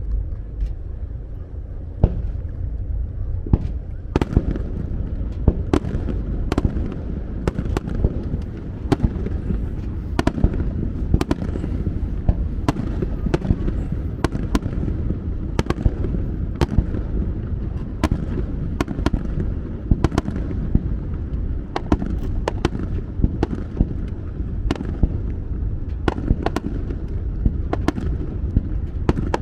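Fireworks bursting overhead in quick, irregular succession: sharp bangs several times a second over a steady low rumble.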